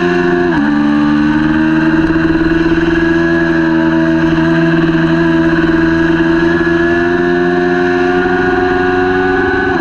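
Kawasaki Ninja 400 parallel-twin engine running at high revs in a race. A quick upshift about half a second in drops the pitch, then the revs climb slowly and steadily until another shift drops them again at the very end.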